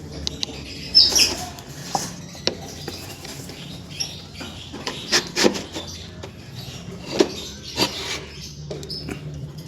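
Short high squeaks and chirps of young lovebirds, mixed with scattered knocks and rustling from handling.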